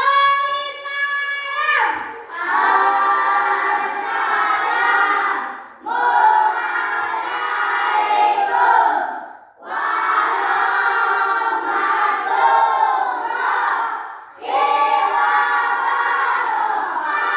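A single voice leads briefly, then a class of children sings together in unison in four long phrases with short breaks between them.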